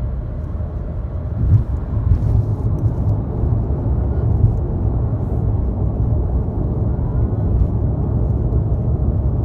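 Steady low rumble of a moving car heard from inside the cabin: road and engine noise, with a brief bump or two about one and a half to two seconds in.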